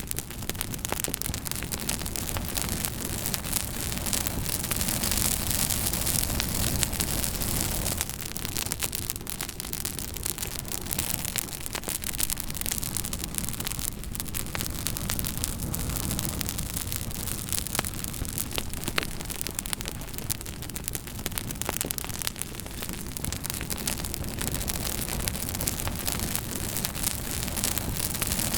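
Wood campfire burning with steady crackling and scattered sharp pops, over a constant low rush that may be surf on the beach.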